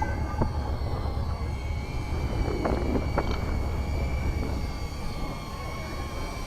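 Steady low rumble of a vehicle engine, with a thin whine above it and a few scattered clicks.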